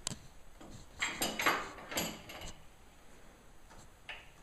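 A few short scraping knocks of something being handled, about a second in and again near two seconds, with a faint one near the end.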